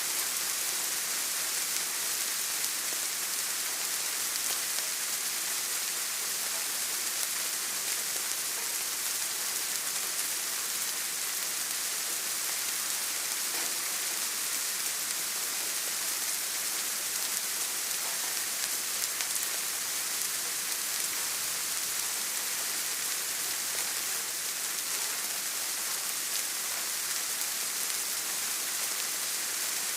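Steady rain falling, an even hiss strongest in the high end, unchanging throughout.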